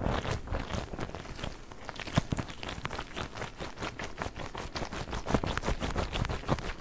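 A giant Orbeez ball handled by fingers for ASMR, giving a rapid, irregular run of taps and crackles.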